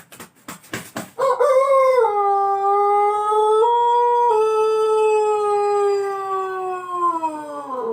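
Ayam Pelung rooster crowing one very long, drawn-out crow of about seven seconds, holding a steady pitch with a brief step up in the middle and sagging lower at the end. Just before it, a quick run of sharp flaps, like wing claps.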